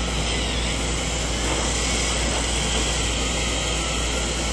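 Remote-controlled toy airplane running, giving off a steady airplane-engine noise.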